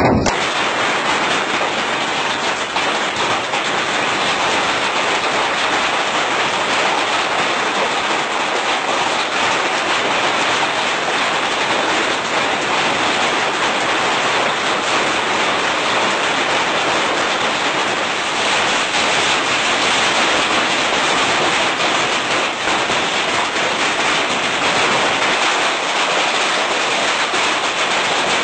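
Rain falling steadily: a dense, even hiss with no letup.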